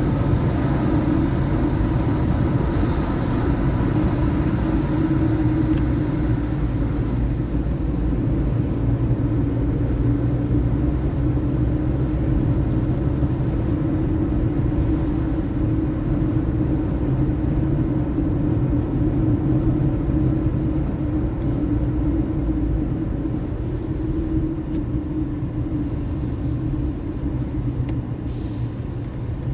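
Car driving on city streets: a steady low rumble of engine and tyre noise, easing slightly near the end.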